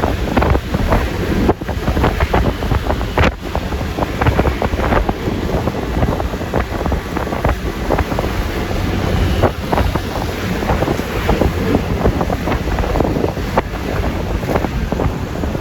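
Wind buffeting the microphone over the engine and road noise of a Yamaha Lexi LX 155 scooter under way. The sound is loud and steady, with constant crackling gusts.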